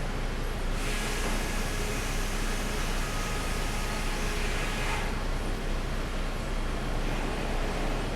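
Pallet sawmill machinery running with a steady drone and low hum. From about a second in, a brighter hiss joins for about four seconds and then cuts off.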